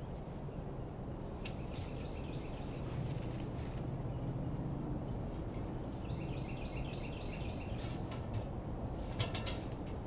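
A bird chirping in two quick runs of high notes, each about two seconds long, with a short burst near the end, over a steady low outdoor rumble.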